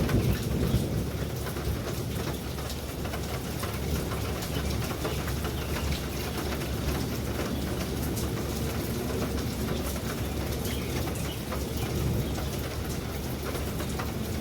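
Steady rain with many drops striking a surface, under a low rumble of thunder that is strongest in the first second.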